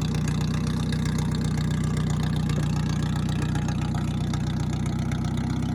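Flathead engine swapped into a Farmall M tractor, idling steadily.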